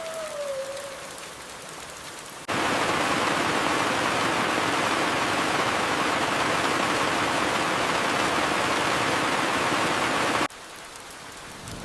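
Steady rain with a thin falling whistle in the first second. About two and a half seconds in, a much louder, even downpour cuts in abruptly, and it cuts out just as suddenly near the end, leaving the lighter rain.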